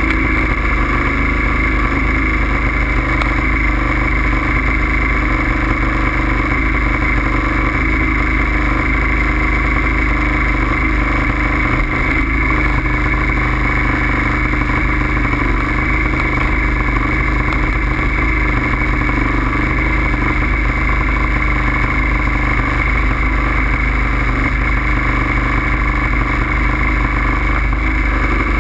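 Steady riding noise from a moving bike, a loud low rumble with a constant whine that stays unchanged throughout.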